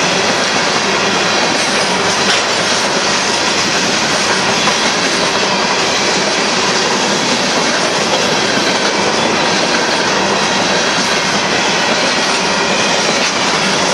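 Freight train of covered hopper cars rolling past: a steady, loud rumble and clatter of steel wheels on the rails.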